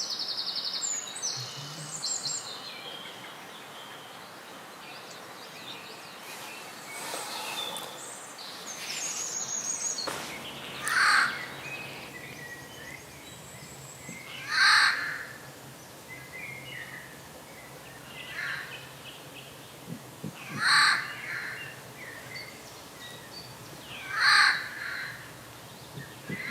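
Bird calls: high chirping trills in the first seconds, then, after a change of background, four loud harsh calls a few seconds apart.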